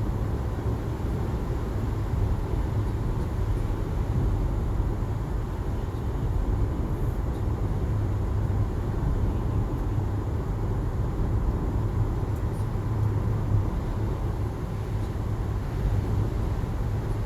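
Steady low rumble of a car driving along a road, with road and engine noise that does not change.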